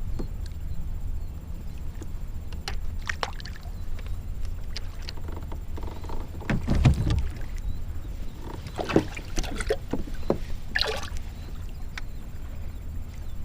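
A kayak drifting on choppy water: a steady low rumble of water and wind around the hull, broken by scattered knocks and a few short splashy sounds.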